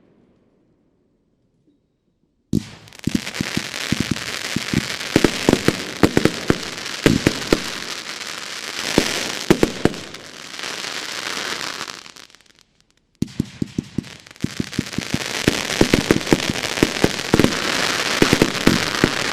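Consumer fireworks going off: a dense stream of sharp cracks and pops over a steady hiss, starting about two and a half seconds in, breaking off briefly around twelve seconds, then starting again.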